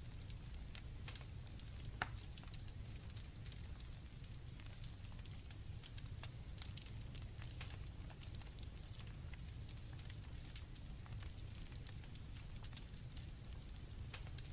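Campfire crackling and popping, with one louder pop about two seconds in, over a low rumble, while crickets chirp steadily in the background.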